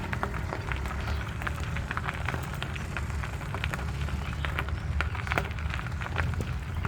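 Bicycle being ridden: a steady low rumble with scattered irregular clicks and rattles.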